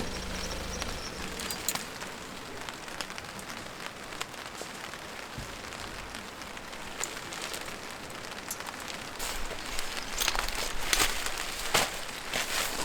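Steady rain falling, with scattered drops ticking on a surface. Near the end there are several louder rustles or scuffs.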